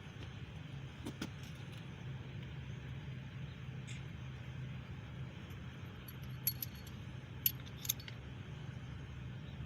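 Metal clinks of loosened main bearing cap bolts and caps being handled on a small block Chevy 350 block: one about a second in, then a cluster of three or four sharp clinks in the second half. A steady low hum runs underneath.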